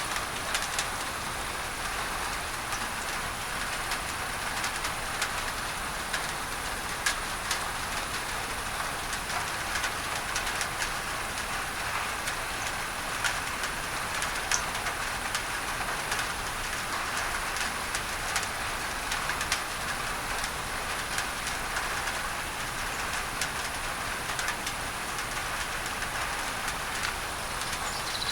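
Steady rain falling on a tin roof, with many sharp little drop ticks, layered over an even hiss of added masking noise.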